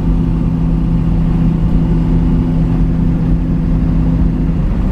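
Chevrolet Nova hot rod's engine droning steadily under way, with road rumble, heard from inside the car; the steady engine tone breaks off shortly before the end.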